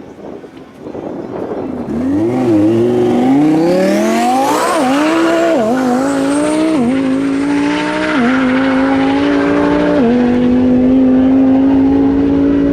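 Twin-turbo Lamborghini Huracán V10 accelerating hard at full throttle. The engine pitch climbs, then drops sharply at each upshift, five times in quick succession, getting louder about two seconds in.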